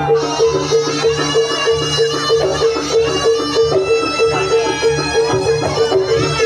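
Live band music: a fast, evenly repeating low note pattern under a held, violin-like melody line, with a steady beat.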